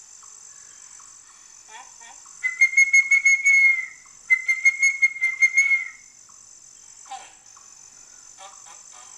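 Forest ambience sound effect: a steady high insect chirring with two loud, fast-pulsing bird trills held on one high pitch. Each trill lasts about a second and a half, the first about two and a half seconds in and the second about four and a half seconds in, with scattered faint chirps around them.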